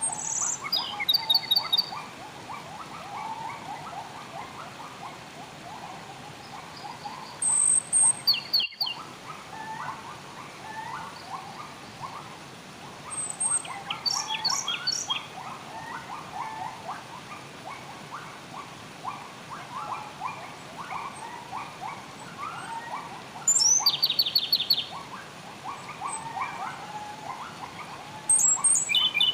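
Wild songbirds singing in short bursts of high, rapid chirps every few seconds, over a steady background of running water.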